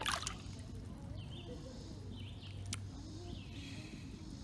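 A short rush of water right at the start as a foot goes into the river, then faint bird chirps coming and going over quiet river ambience.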